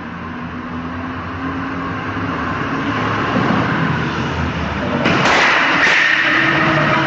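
Motor vehicle driving, its engine and road noise building gradually. About five seconds in, a sudden loud rush of noise starts and lasts about two seconds.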